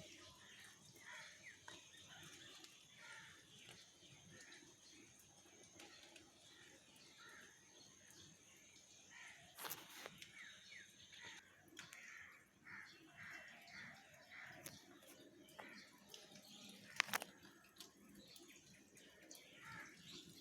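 Faint outdoor birdsong: many short chirps and calls. A steady high thin tone runs through roughly the first half, and there are two sharp clicks, about ten seconds in and near the end.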